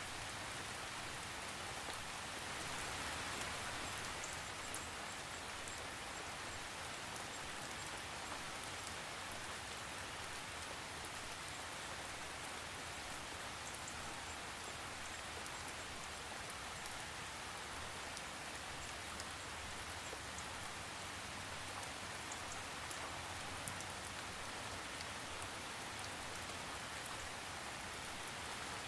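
Steady rain falling, a constant hiss of rain with scattered drop ticks and no thunder.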